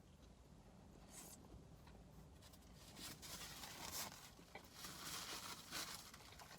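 Faint crinkling and rustling while a cheeseburger is eaten from its wrapper, starting about three seconds in, irregular and scratchy, over near silence.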